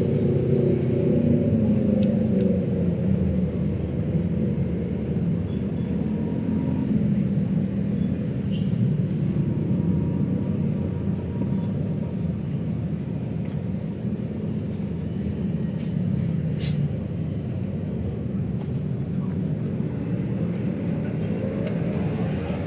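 Steady rumble of city road traffic, with vehicles driving past. About a second in, one vehicle's engine drops in pitch as it passes; near the end, another rises in pitch as it approaches.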